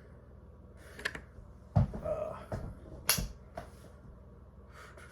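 Scattered clicks and knocks of small objects being handled, with a heavier thump just under two seconds in and a sharp click just after three seconds.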